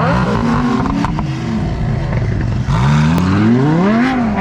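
A sports car's engine revving: the note climbs over the first second or so, eases off, then climbs again from about three seconds in and falls near the end.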